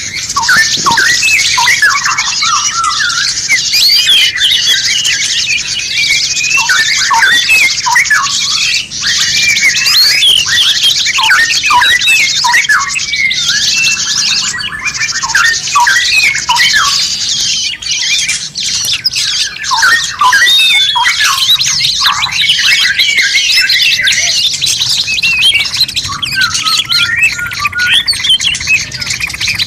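Dense, continuous chorus of many songbirds chirping, whistling and trilling over one another.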